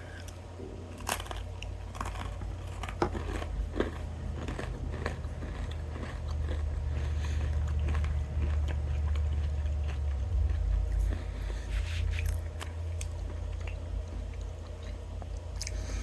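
Biting into and chewing a crunchy Nature Valley Savory Nut Crunch nut bar close to the microphone: sharp crunches, densest in the first few seconds, then steadier chewing over a low rumble.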